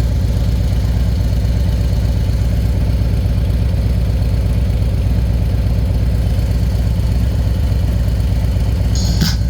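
Harley-Davidson Road Glide V-twin engine idling steadily. A brief sharp sound comes near the end.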